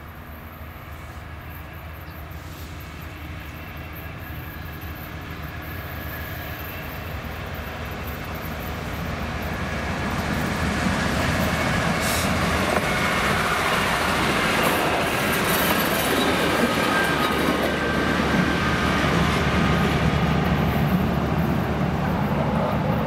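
Passenger train approaching over the level crossing, its rail noise growing steadily louder for about ten seconds, then running loud and steady as it passes close by.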